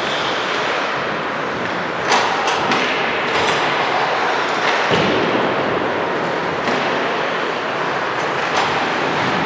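Ice hockey game sound in a rink: a steady wash of skates and play noise, broken by several sharp knocks scattered through it, the loudest about two seconds in and about five seconds in.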